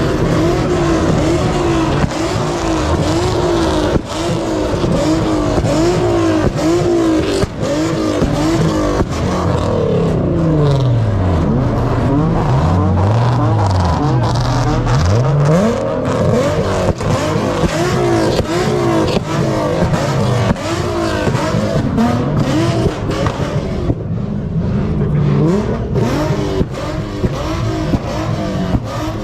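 Car engines revving hard over and over, the pitch climbing and falling in quick waves, with some tyre squeal, as cars are driven hard in a car-meet lot. Slower deep swoops of engine pitch come through about midway.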